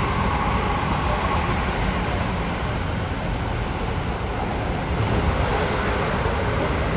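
Seibu 6000 series electric commuter train running steadily along the track: an even rumble of wheels and running gear, with no rise or fall in pitch.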